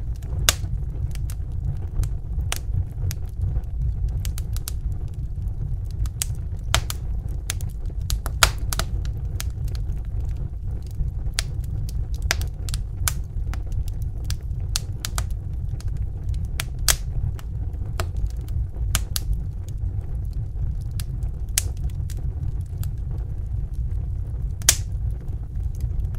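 Log fire crackling in a fireplace: irregular sharp pops and snaps over a steady low rumble of the flames.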